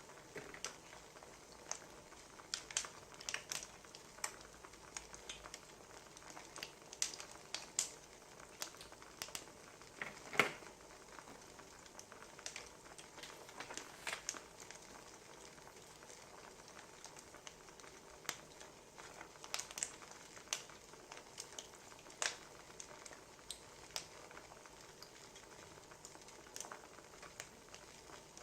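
Wood fire crackling, with a steady hiss and irregular sharp pops, one louder pop about ten seconds in.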